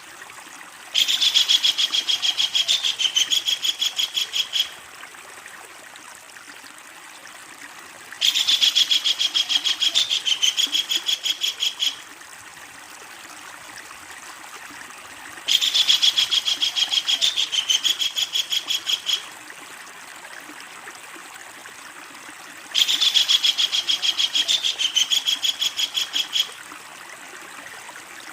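Kingfisher giving its long, rapid rattling call four times, each bout a fast run of repeated notes lasting about four seconds, with pauses of about three seconds between, over a steady faint hiss.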